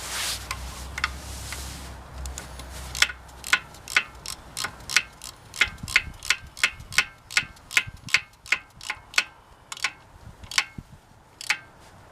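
Ratchet wrench clicking in short strokes, sharp separate clicks about two to three a second, as fasteners are worked loose on an engine. It opens with a short hiss lasting about two seconds.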